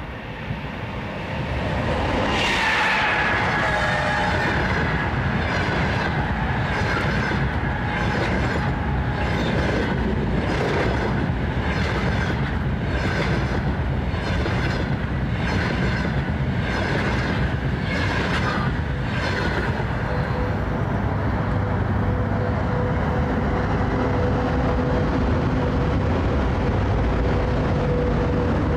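EP20 electric locomotive hauling a double-deck passenger train passes at speed, arriving suddenly about two seconds in with a high whine. The coaches' wheels then beat over the rail joints about once a second until roughly twenty seconds in. After that, a freight train keeps rolling past with a steady rumble and a faint hum.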